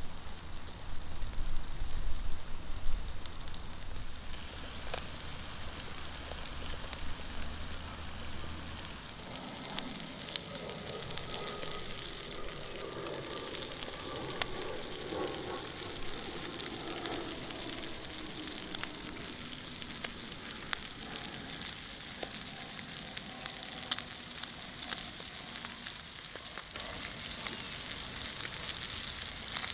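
Hamburger patty and chopped vegetables frying in a pan on a Trangia camping stove: a steady sizzle full of fine crackles.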